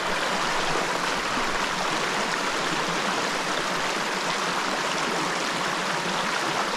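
Mountain stream rushing steadily over slate rock.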